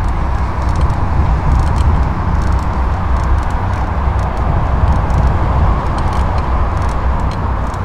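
Wind rumbling on the microphone over the rolling of bicycle tyres on a paved path, with road traffic running in the distance and faint scattered ticks.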